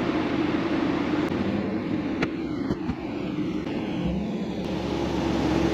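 Car engine running steadily, with a deeper rumble joining about four seconds in and a single click a little past two seconds.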